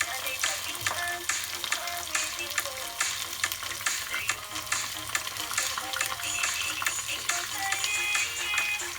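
Bread-crumbed chicken pieces frying in hot oil: a dense, continuous crackling sizzle.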